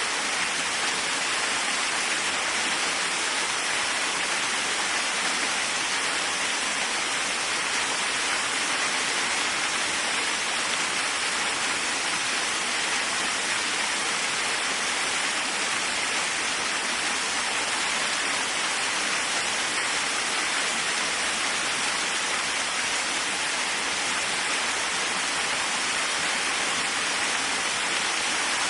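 Waterfall: water falling and splashing in a steady, even rush with no pauses or separate splashes.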